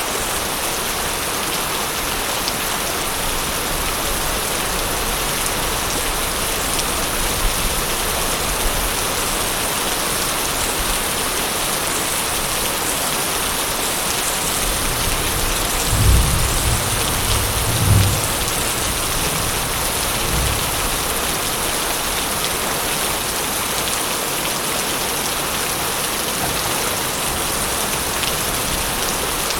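Steady rain falling, with a low rumble of thunder a little past halfway that swells twice in quick succession and then fades with a smaller after-rumble.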